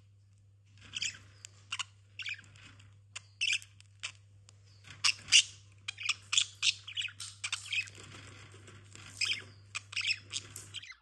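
Pet budgerigars chirping and chattering in quick short calls, with a steady low hum underneath.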